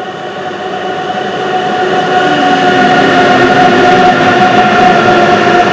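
WAG-12B electric freight locomotive approaching at high speed, the steady whine of its traction motors growing louder over the rumble of the train and levelling off at full volume about halfway through.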